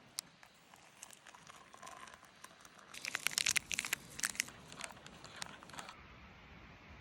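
Crinkling, crackling rustles of something being handled, after a few scattered clicks, thickest from about three to six seconds in.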